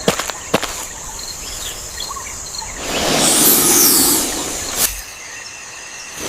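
Outdoor nature ambience with faint bird chirps, a few sharp clicks near the start, and a rush of noise that swells and fades about three seconds in.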